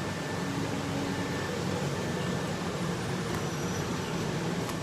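Steady mechanical hum and hiss of running workshop machinery, like a cooling fan, with no distinct strokes or impacts.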